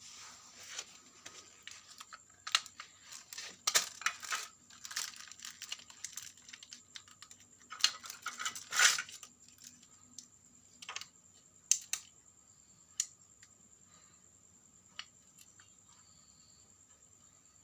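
Irregular clicks, taps and crinkling rustles of small objects being handled, busiest in the first nine seconds and thinning to a few scattered clicks after.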